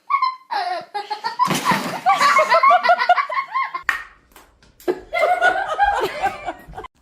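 People laughing hard in two long bouts, with a short noisy burst about one and a half seconds in.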